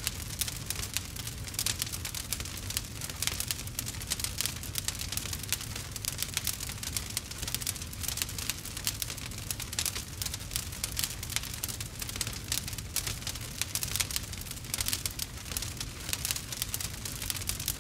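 Campfire burning with a dense, continuous crackle and frequent sharp pops, over a low rumble of the flames.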